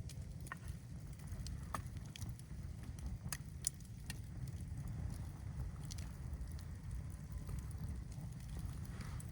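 Campfire crackling with scattered sharp pops over a steady low rumble.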